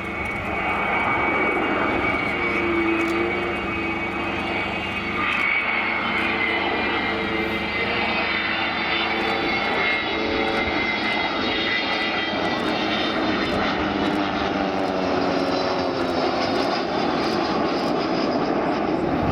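Avro Vulcan's four Rolls-Royce Olympus jet engines running loud and steady on a slow formation flypast with two RV-8 light aircraft, several tones in the engine noise sinking slowly in pitch as they pass.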